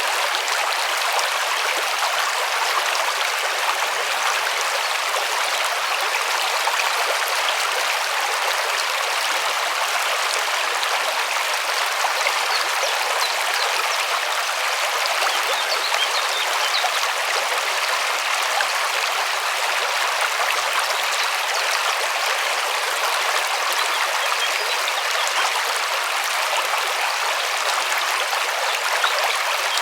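A river running steadily over rocks, a constant rushing and splashing of flowing water.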